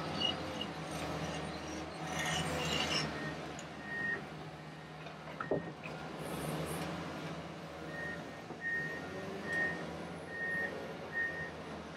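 Komatsu WA250 wheel loader working: its diesel engine runs steadily, with one knock near the middle, and from about two-thirds of the way in its backup alarm beeps at an even pace, a little more than once a second, as it reverses.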